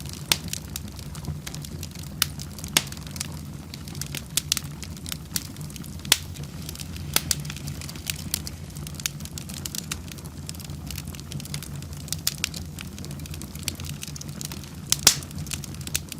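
Wood fire burning in a fireplace: irregular sharp crackles and pops over a steady low rumble, with one louder pop about fifteen seconds in.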